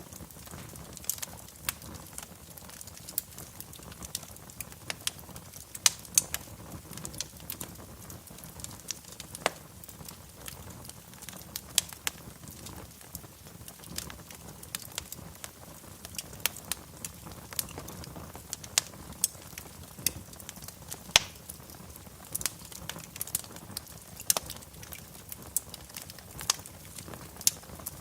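Wood fire in a fireplace crackling, with irregular sharp pops a few times a second over a soft low hiss; the loudest pops come about six seconds in and about twenty-one seconds in.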